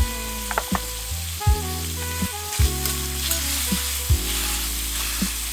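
Meat and vegetables sizzling as they are stir-fried on an extra-thick iron griddle plate, under background music with a steady beat.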